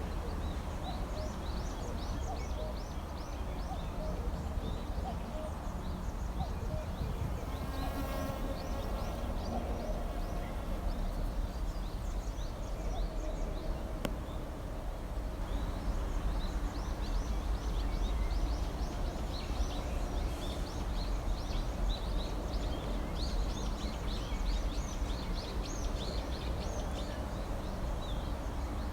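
Small birds chirping, many short high chirps overlapping, over a steady low rumble. About eight seconds in, a brief lower, buzzy call stands out.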